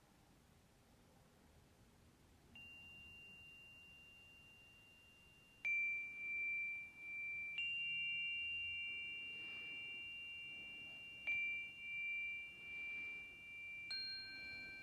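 Meditation bells struck about five times at a few different pitches, starting faintly and then louder from about a third of the way in. Each tone rings on long with a slow wavering pulse, the tones overlapping.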